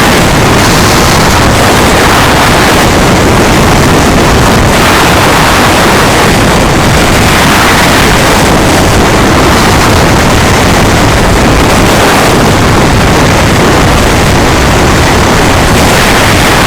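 Loud, steady vehicle rumble mixed with wind buffeting the microphone, as on a moving ride.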